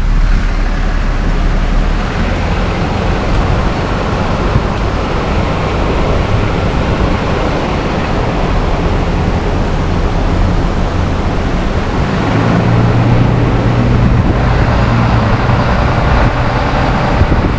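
Tow truck driving, heard from inside the cab: a steady engine drone with road and tyre rumble. The engine note grows louder about twelve seconds in.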